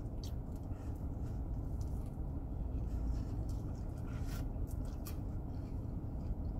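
A person chewing a mouthful of Big Mac, with a few faint wet clicks and smacks, over a steady low rumble inside a car cabin.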